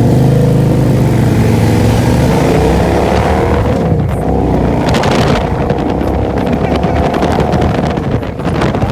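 Motorcycle engines running under acceleration, their pitch rising and falling as they rev through the gears, with a heavy low rumble in the first couple of seconds.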